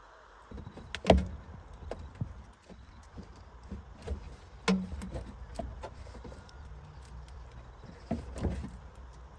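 Irregular knocks and clicks of hands-on work on an old car, over a low steady rumble. The loudest knocks come about a second in, just before five seconds and about eight and a half seconds in.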